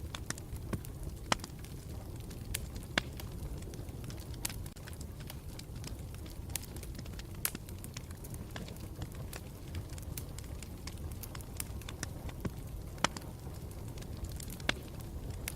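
Campfire burning, a steady low rumble of flames with irregular sharp crackles and pops of the burning wood, a few of them louder.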